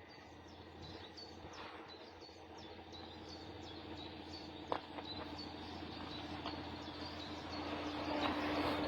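A small bird chirps over and over, a short high note about three times a second. Under it a steady rumbling noise grows louder, and a low hum swells near the end. There is a single sharp click about halfway through.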